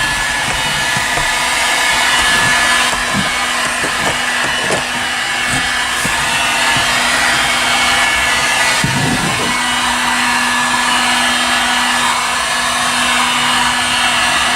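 Electric heat gun blowing steadily, with a steady low hum from its fan motor, as it heats tar-backed sound-deadening mat to soften it so it sticks.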